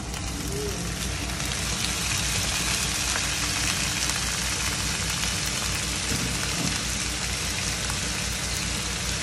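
Whole tiger prawns sizzling in hot oil in a frying pan, the sizzle swelling as they are tipped in at the start and then holding steady.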